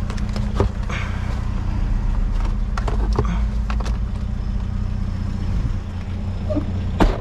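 A motor vehicle engine running steadily at idle, under light clicks and knocks of items being handled, with a sharper knock near the end.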